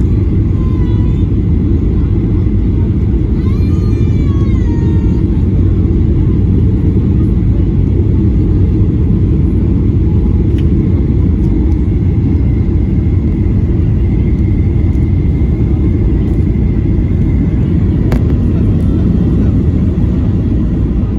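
Steady, loud rumble of a jet airliner's engines and airflow, heard inside the passenger cabin during the descent to land.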